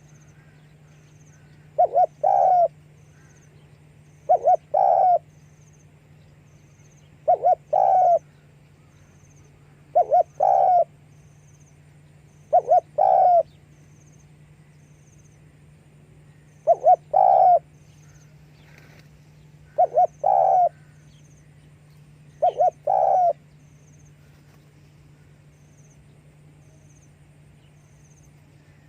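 Spotted dove cooing: eight phrases, each two quick notes followed by a longer one, repeated about every three seconds, stopping about five seconds before the end. A faint steady low hum runs underneath.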